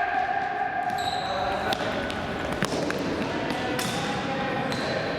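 Indoor futsal game: shouting voices echo in a sports hall, with the ball thudding off feet and floor a few times and brief high squeaks.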